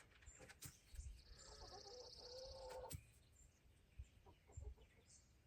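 Faint bird calls: a rapid high trill lasting about a second and a half, with a lower call that rises and falls beneath it. A few soft knocks follow.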